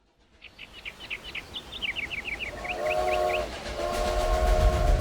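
Recorded steam-train sound effect opening a song track: a pulsing chug that builds and grows louder under a run of short high chirps, then a train whistle sounding a chord of several notes, broken briefly and sounding again. A low rumble builds beneath it near the end.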